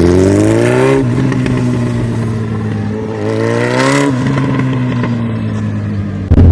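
Suzuki Hayabusa's inline-four engine with its exhaust silencer removed, blipped twice from idle: the pitch climbs for about a second each time, then drops back to a steady open-pipe idle. Near the end a sudden, much louder low rumble cuts in.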